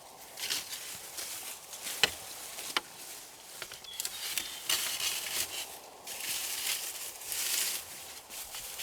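Rustling and crackling of leaves and sticks being handled, in uneven bursts, with two sharp snaps about two and three seconds in.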